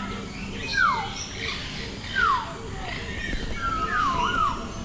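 Birds calling: two loud whistled calls that slide steeply down in pitch, about a second and a half apart, then a wavering whistle near the end, with other chirps and tweets behind them.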